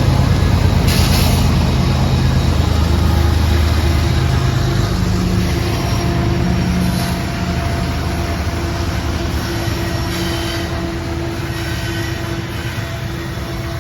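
Norfolk Southern freight train cars rolling past on the rails in a steady rumble. A low locomotive engine hum fades out over the first few seconds, and the rumble slowly quietens.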